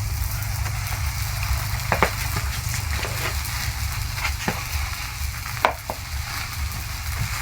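Chapati frying on a flat pan, a steady sizzle with a low rumble underneath and a few sharp clicks or knocks, the loudest about two seconds in and near six seconds.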